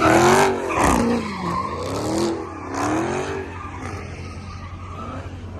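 Car engine revving up and down over and over while its rear tyres spin and squeal in a burnout, with the revs held high in third gear. It is loudest in the first second.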